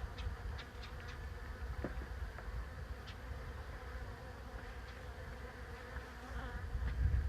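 A swarm of honeybees buzzing: a steady, dense hum of many wings, with a low rumble underneath.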